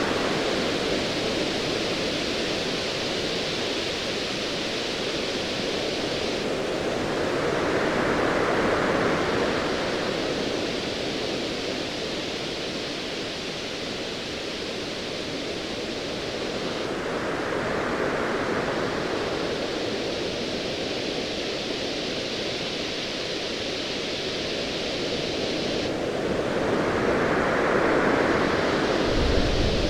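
Ocean waves under a steady hiss, swelling and washing in about every nine to ten seconds. A deep rumble of distant thunder starts right at the end.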